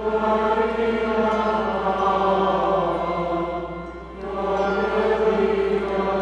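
Voices chanting part of the eucharistic liturgy in long held sung tones, with a short break about four seconds in.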